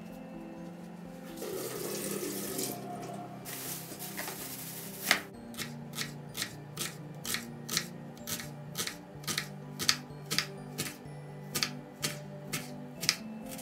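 A tap runs briefly, in two short spells near the start, then a steady series of sharp knocks follows, about two to three a second, over soft background music.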